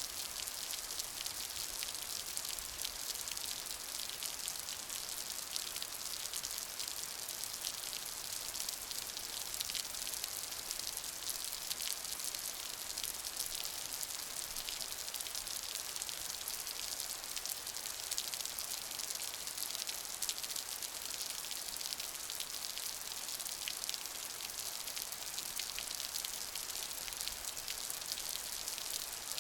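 Steady rain falling, a dense, even hiss of many fine drop ticks with no pauses.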